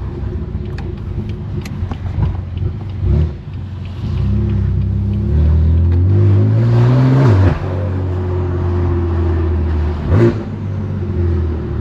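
2018 BMW M3 Competition's twin-turbo S55 inline-six through a straight-pipe exhaust, pulling at low revs, then accelerating about four seconds in with a rising note. The note cuts off abruptly as the throttle is released, and there is a short sharp bark near the end.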